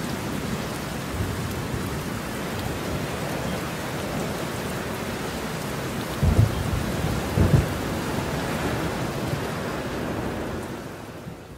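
Steady rain hiss during a mountain storm, with two brief low thumps a little past the middle; the sound fades out near the end.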